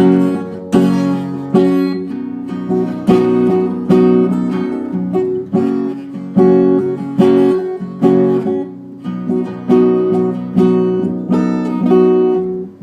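Acoustic guitar strummed in a steady rhythm, about one strum every second, playing the instrumental close of a slow song with no singing.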